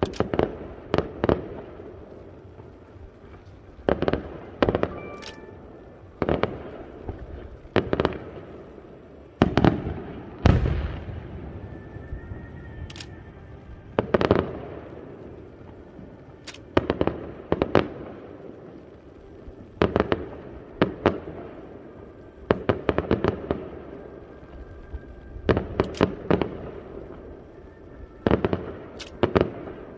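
Aerial firework shells bursting: irregular sharp bangs, often in quick clusters of two or three, some of the louder ones followed by a short fading echo.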